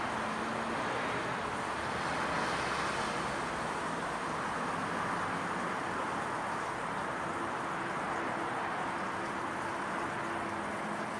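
Steady residential-street evening ambience: an even hiss of distant road traffic with a faint low hum underneath.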